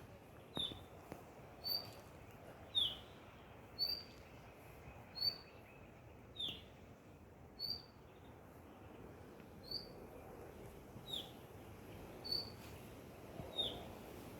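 A songbird repeating short high call notes about once a second, alternating a brief higher note with a falling one, over the steady rush of a river.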